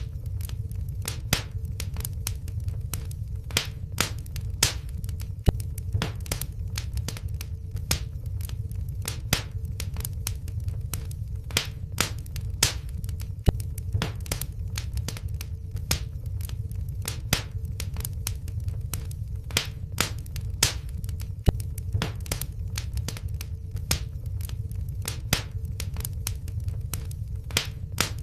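Wood fire burning in a fireplace, crackling with sharp, irregular pops several times a second over a steady low rumble of the flames.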